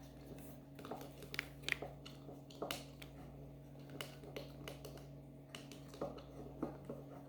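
Scattered light clicks and taps, irregularly spaced, from small objects being handled, over a steady low hum.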